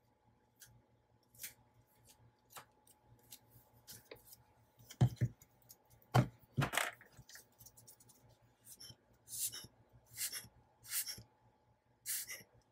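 Paper and journal pages being handled on a desk: scattered rustles, scrapes and light taps, with two louder knocks about five and six seconds in and a few more rustles near the end.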